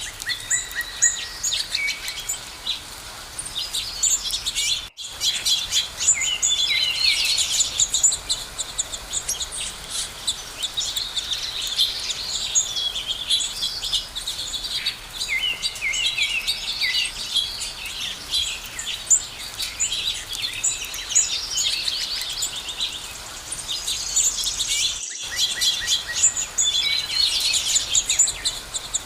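Several songbirds singing and chirping at once, a dense chorus of quick high chirps and trills, with two brief gaps where the sound cuts out.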